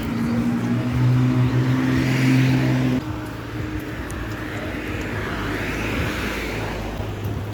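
Street traffic: a motor vehicle's steady engine hum that cuts off suddenly about three seconds in, with vehicles passing twice in swells of road noise.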